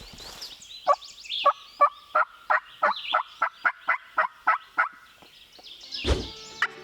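A hunter's turkey call running a long series of evenly spaced yelps, about three a second, calling to get a gobbler to answer. A single loud thump near the end.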